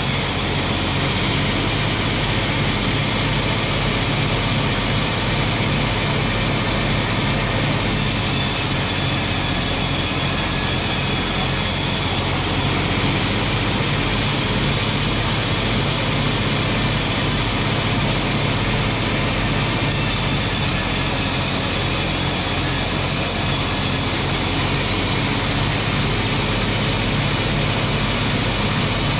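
Wood-processing machinery running steadily: a loud, even mechanical drone with a low hum underneath.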